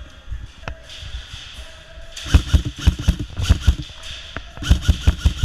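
A quick series of sharp knocks or cracks, about five a second, in two runs: one starting about two seconds in, the other near the end.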